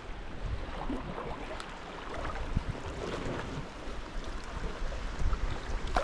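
Sea water sloshing and lapping around a sea kayak, with scattered small splashes.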